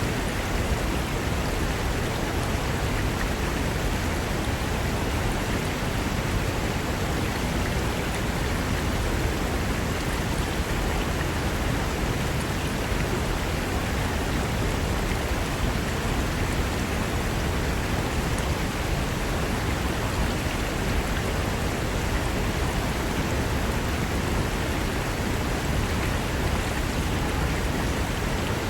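Fast mountain river rushing over rocks: a steady, even roar of water with no change.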